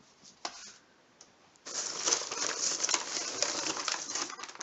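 Packaging rustling and crinkling as hands rummage through a cardboard gift box, starting after a brief knock about half a second in.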